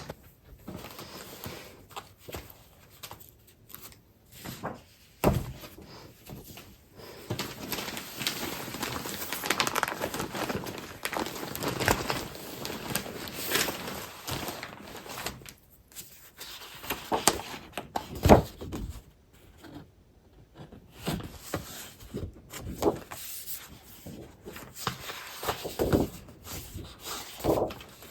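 Paper and plastic packaging of craft supplies rustling and crinkling as they are handled and sorted, with scattered knocks as items are set down; the sharpest knock comes about two-thirds of the way in.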